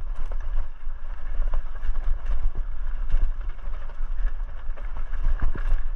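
Wind rumbling on the microphone while riding a fat-tire electric mountain bike on a trail, with scattered small clicks and rattles.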